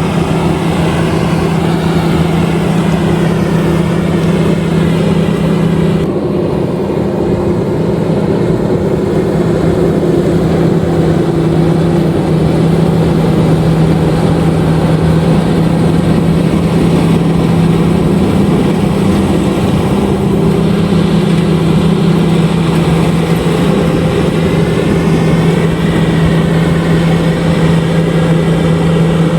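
LOVOL RG130EVO rice combine harvester running steadily at work: a loud, even engine drone with a fainter whine above it that wavers in pitch.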